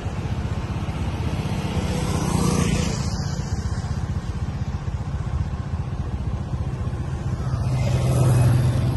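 Steady low rumble of a motor vehicle on the road, swelling briefly about two seconds in and again near the end.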